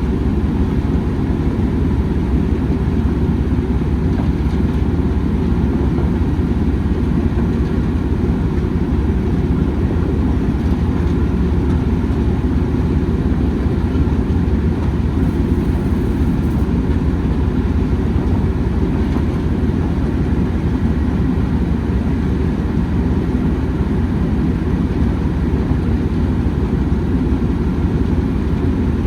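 Steady low rumble of a heritage railway train, holding level with no breaks or sudden events.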